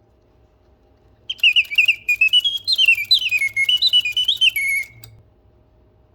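A 1950s mechanical singing bird machine whistling a warbling birdsong of quick trills and sliding pitch. It starts about a second in and stops abruptly near five seconds.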